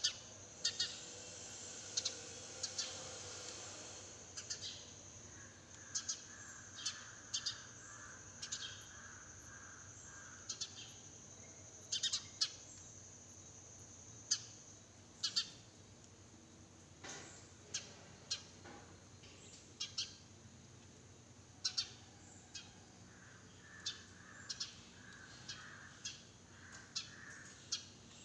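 Sparrows chirping in short, sharp calls, roughly one every second or so and irregularly spaced. Other birds call more softly and lower in the background.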